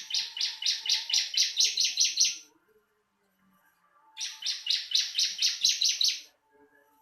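Bar-winged prinia (ciblek) singing: a fast run of repeated high chirping notes, about five a second, lasting a couple of seconds, then a second, similar run after a pause of about two seconds. The recording is of the kind played to caged birds to get them to sing.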